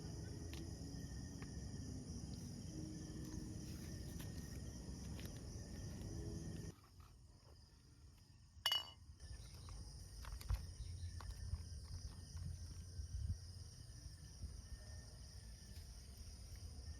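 Faint outdoor ambience with a steady high-pitched chorus of insects. The low background noise drops away abruptly partway through, and there is a single sharp click about halfway.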